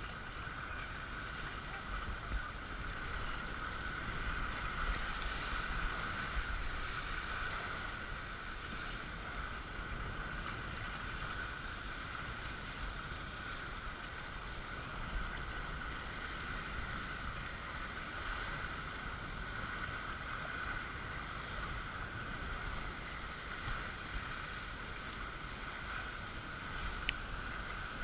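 Steady rush of flowing water on a water-park raft slide, unbroken throughout, with one sharp click near the end.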